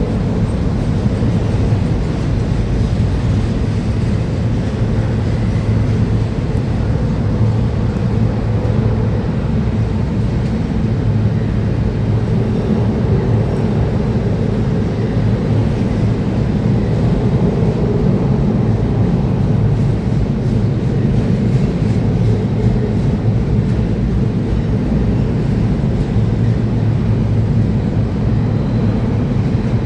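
Freight train rolling past, a steady rumble of wheels on rails that stays even throughout.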